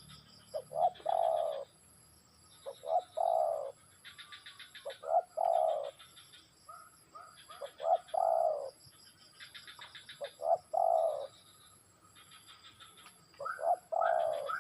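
Spotted dove (tekukur) cooing: each phrase is two or three short notes running into a longer coo, repeated about every two and a half seconds, six times. Fainter chirping from other birds fills the gaps between phrases.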